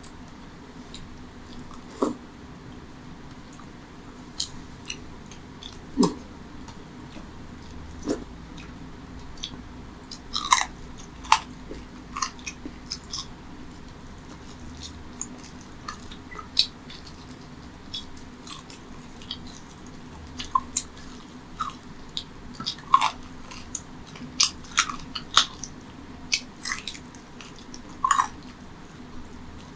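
Close-up eating sounds: chewing a mouthful of mutton curry and rice eaten by hand, with many scattered sharp clicks and smacks, more frequent in the second half. A steady low hum runs underneath.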